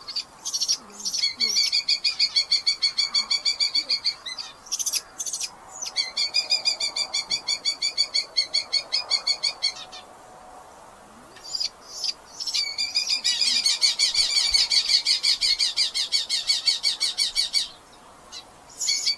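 Red-footed falcons calling in rapid chattering series of about ten notes a second: three long bouts, with a few short, sharp calls between them.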